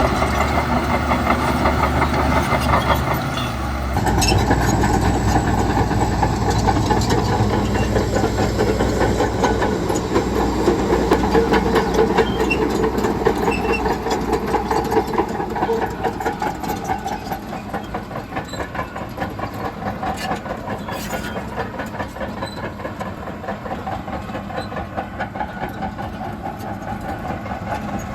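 Heavy diesel machinery running at a road-building site. The sound changes abruptly about four seconds in and grows gradually quieter over the second half.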